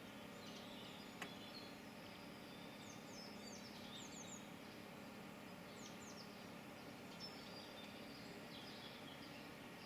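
Small songbirds chirping faintly: short, quickly falling high notes in little clusters every second or two, over a steady soft hiss. A single sharp click about a second in.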